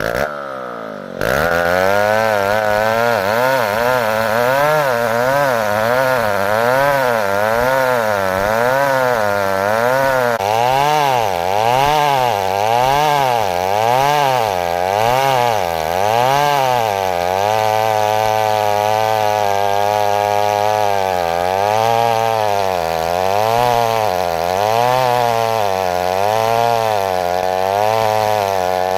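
Two-stroke chainsaw cutting wood under load, its engine pitch rising and falling about once a second as the bar works through the cut. There is a brief break right at the start.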